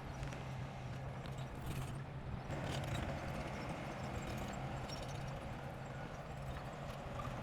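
Diesel engine of heavy construction machinery running steadily, with light clattering clanks over it.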